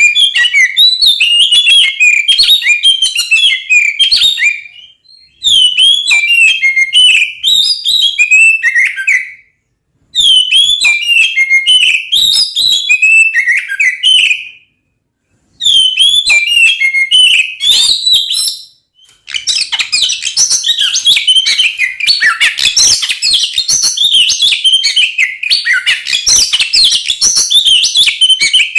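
Oriental magpie-robin (kacer) singing loudly in fast, varied whistles and chirps. It sings in phrases of about four seconds with short breaks, then turns continuous and denser about two-thirds of the way in.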